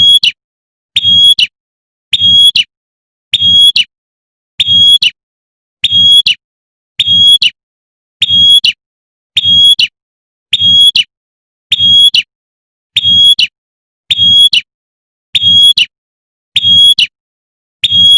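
Prenjak (prinia) call, a short high burst repeated about every 1.2 seconds, each one alike, with a low thud under each call. It is the female's 'tembakan' call that is played to lure males.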